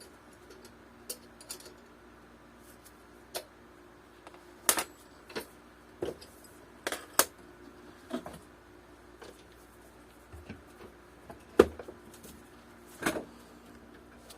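Small metal hardware (nuts, washers, bolts) and tools clinking and tapping as they are handled, about a dozen separate sharp clicks at irregular intervals, the loudest about twelve seconds in.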